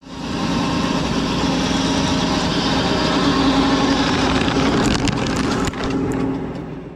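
Fendt 724 Vario tractor running steadily while working the field, with a steady low engine tone under a broad mechanical noise. A few sharp clicks come about five to six seconds in, and the sound fades near the end.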